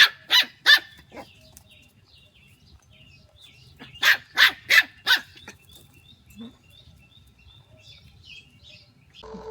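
A dog barking in two quick runs: three barks at the start, then four more about four seconds in.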